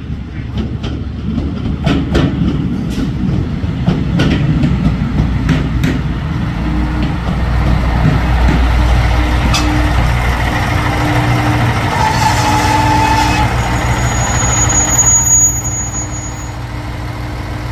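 KiYa 141 series diesel inspection railcar pulling into a station: wheels clacking over rail joints, then the low drone of its diesel engine as it slows, with brief high brake squeals. About two-thirds of the way through the level drops as it stops, leaving the engine idling.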